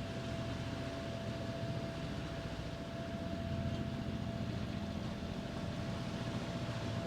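Engine of an aluminium catamaran running steadily while motoring: a low, even hum with a thin, steady whine above it.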